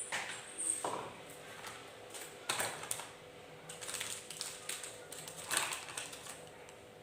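Light knocks and clatters of hard items being handled and set down in a refrigerator, in small clusters about every second or two.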